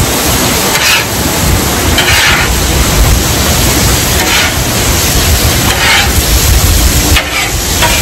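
Steak, chicken and shrimp sizzling on a flat-top griddle, with a metal spatula scraping and stirring across the cooktop every second or two. Heavy wind rumble on the microphone underlies it.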